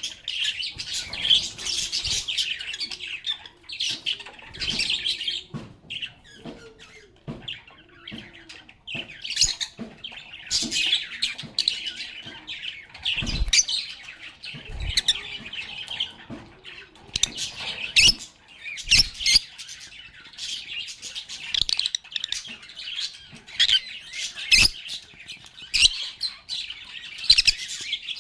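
A group of pet lovebirds chirping and chattering in shrill, rapid bouts with brief lulls, plus a few short knocks like birds moving about the cage.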